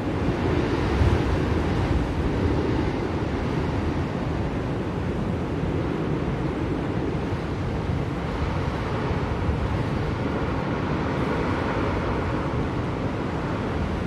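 Blizzard wind blowing as a steady rushing noise that swells and eases in slow gusts, rising shortly after the start and again in the second half.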